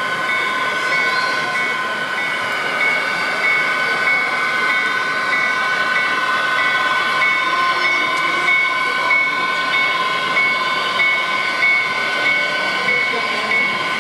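Model train running on an exhibition layout: a steady, high motor whine with a regular pulsing beat, over the murmur of a crowded hall.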